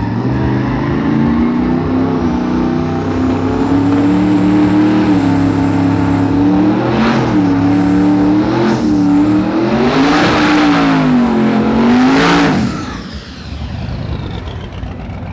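Twin-turbo Jeep Grand Cherokee engine running and revving hard, with a high whine riding along with it. Past the middle its pitch climbs and falls in four surges, then the sound drops away sharply near the end.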